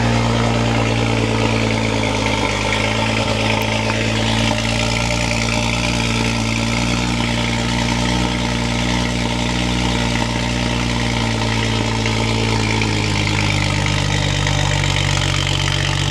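BMW 135i's turbocharged 3.0-litre inline-six idling steadily through its old exhaust, before the new exhaust is fitted.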